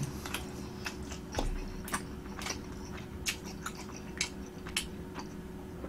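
Close-miked mouth sounds of biting and chewing a sotteok-sotteok skewer of sausage and chewy rice cake: scattered soft, wet clicks and smacks at irregular intervals.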